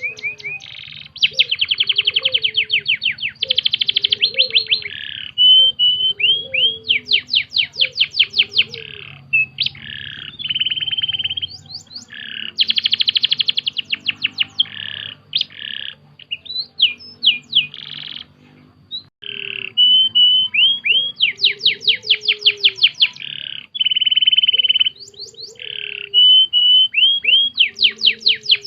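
Domestic canary singing a long, continuous song of fast trills and rolls, rapid repeated notes and short whistled notes, with a brief pause about two-thirds of the way through.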